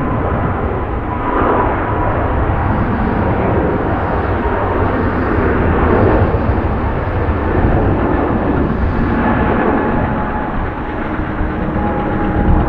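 Boeing 777-200 jet engines running at takeoff, a loud steady rumble with faint whining tones on top.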